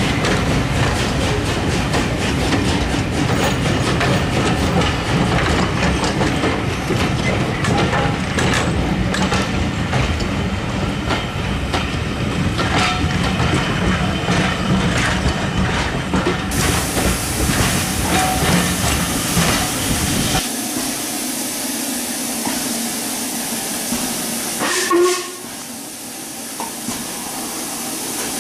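A train of railway passenger coaches rolling past close by, with a steady rumble and wheels clicking over the rail joints. About twenty seconds in the rumble stops abruptly, leaving a quieter steady hiss, and there is a brief loud sound near the end.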